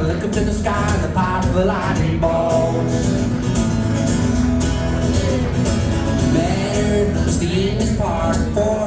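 Live band playing an upbeat song, with a steady drum beat and guitar, and a male voice singing in places.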